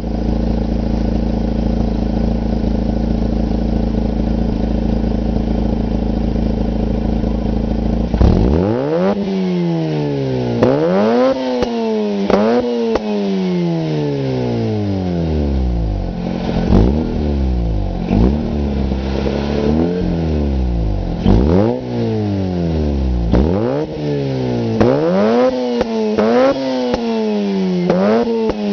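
Mazda RX-8's twin-rotor rotary engine through a homemade one-off exhaust from the manifold back: a steady idle for about eight seconds, then a run of quick revs, each rising sharply and falling away more slowly, coming closer together near the end.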